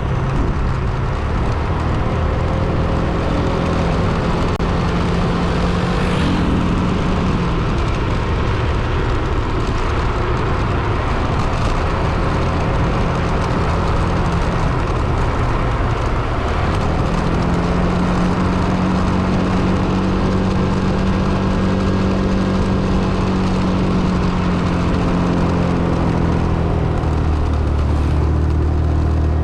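A car's engine running steadily while driving, with road noise. The engine note shifts in pitch a few times.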